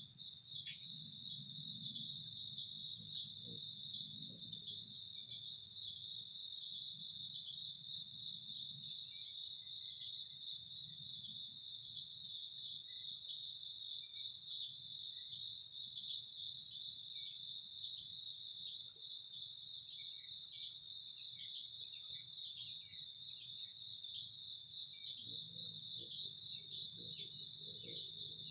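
A steady, high-pitched chorus of insects trilling without a break, with many short sharp chirps scattered over it and a faint low hum underneath.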